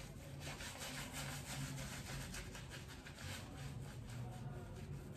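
RazoRock Tricolore shaving brush scrubbing shaving-soap lather into a stubbled face: a soft, rapid, irregular bristle-on-skin rubbing, building the lather as a face massage.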